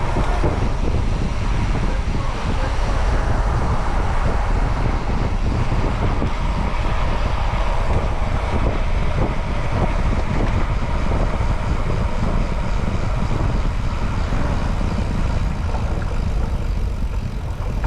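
Steady rush of wind noise buffeting a moving microphone, mixed with road noise.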